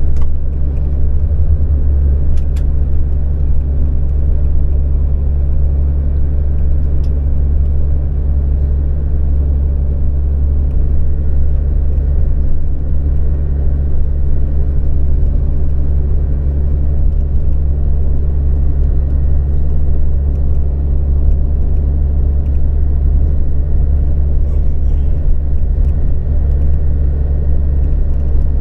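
Steady low rumble of a coach's engine and road noise, heard from inside the moving bus.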